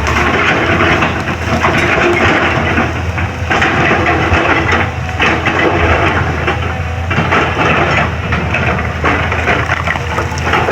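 Excavator engine running with a steady low drone while the bucket scrapes and crushes broken road surface: stretches of noisy crunching broken by short lulls.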